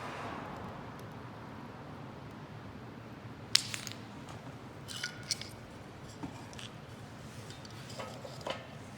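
Wood burning in a homemade double-wall Solo Stove-style wood stove: a steady rushing hiss with sharp crackles and pops. The loudest pop comes about three and a half seconds in, with smaller clusters around five and eight seconds.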